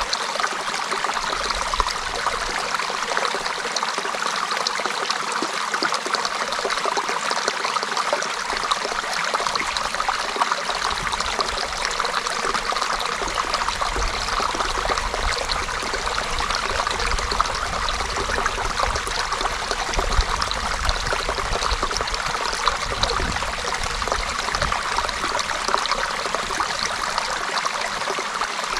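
Creek water running steadily over stones, a continuous babbling and trickling with a low rumble coming and going in the second half.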